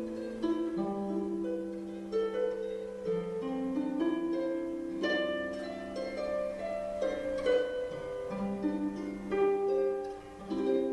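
Irish harp playing a slow passage of plucked notes that ring on and overlap, dipping briefly just before the end, then starting new notes.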